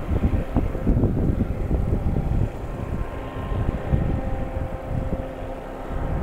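Wind buffeting the microphone in gusts, over a faint steady engine hum.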